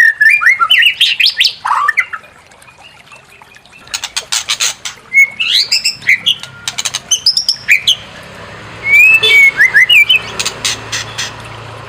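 White-rumped shama (murai batu) singing: rapid bursts of sharp clicking notes mixed with loud whistled phrases that glide up and down, in several spells with a short pause about two seconds in.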